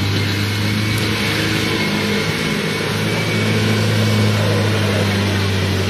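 Land Rover Discovery engine pulling under load as the vehicle climbs out of a muddy track: a steady low drone that sags briefly about halfway through, then picks up again.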